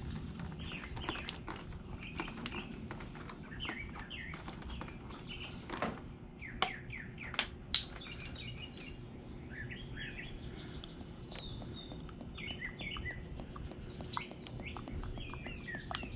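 Small birds chirping, a string of short repeated notes throughout. A few sharp clicks or taps stand out a little past the middle.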